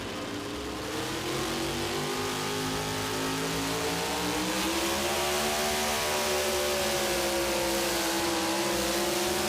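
Super modified pulling truck's engine at high revs under full load, pulling the sled down the track, its pitch rising over the first five seconds and then holding high. Its sound is a scream.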